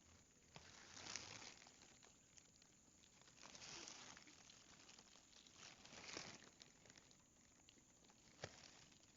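Faint rustling of leaves and stems handled by hand while vegetables are picked, with a few sharp snaps or clicks, one about a second in and one near the end.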